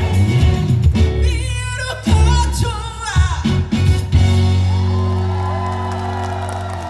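A female vocalist sings live over a band, with wavering vocal runs. About four seconds in, she holds a long final note over a sustained chord, which fades and cuts off as the song ends.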